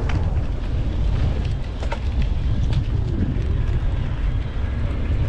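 Mountain bike riding over a rocky, sandy trail, with wind buffeting the helmet-mounted camera's microphone as a steady low rumble. Scattered sharp clicks and rattles come from the bike jolting over the ground.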